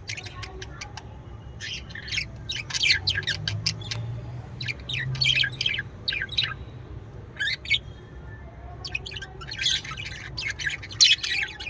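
Small cage birds chirping and chattering in quick, dense bursts of short high calls, with a low hum underneath.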